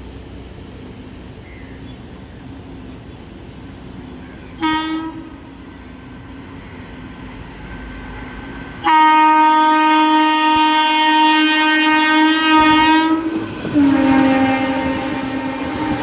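An Indian Railways electric locomotive's horn sounds as the train approaches. First comes a short toot about four seconds in, then a long blast of about four seconds, then another blast near the end, over a growing rumble of the train.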